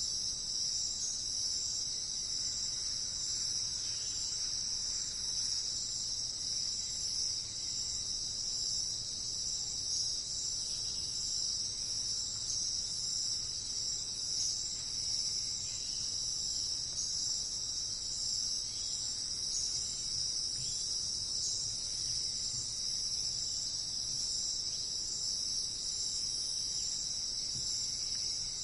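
Insect chorus, likely crickets, in a continuous high-pitched even trill that holds steady throughout.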